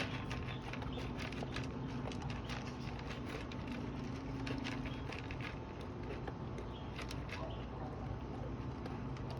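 Akitas crunching dry kibble from their plates, many small irregular clicks of chewing, over a steady low hum.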